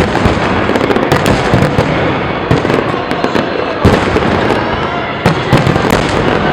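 Aerial fireworks display going off without a break: a dense run of booms and crackling bursts, the loudest about four seconds in.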